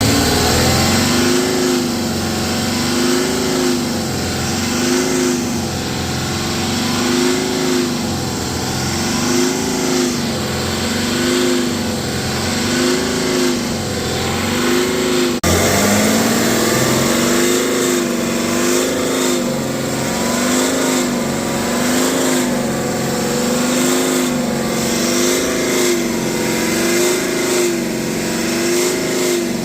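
BMW X5 40d's N57 three-litre straight-six diesel revved over and over, the pitch rising and falling about every second and a half, with a brief break near the middle. The revs are brought up to where the owner hears a loud resonating, vibration-like noise around 3000 rpm, whose source he has not found.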